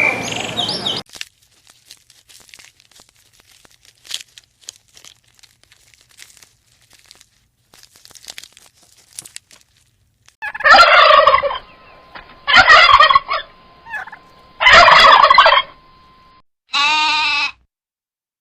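A turkey gobbling three times, each gobble a rattling call about a second long, in the second half. Near the end a goat bleats once.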